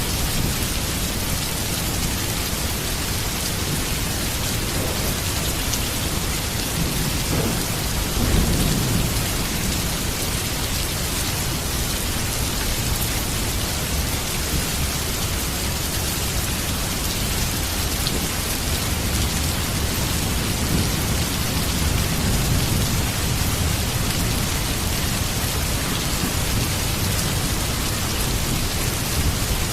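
Heavy rain falling steadily, with thunder rumbling low beneath it. The loudest rumble swells about eight seconds in and a softer one comes later on.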